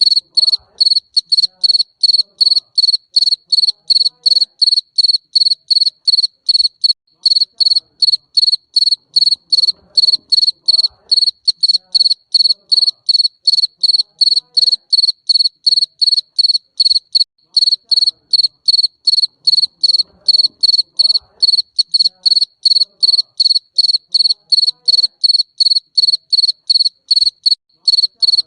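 Garden cricket chirping: a steady, even train of short, high-pitched chirps, about three a second.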